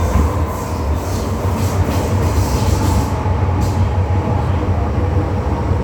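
MTR M-Train electric multiple unit running between stations: a steady low rumble of wheels and running gear with a steady motor tone. A high hiss with a regular beat fades out about three seconds in.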